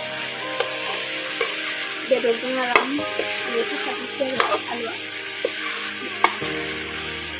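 Pork and potato pieces sizzling in a metal wok while a steel spoon stirs them. The spoon scrapes along the pan and clinks against it several times over a steady frying hiss.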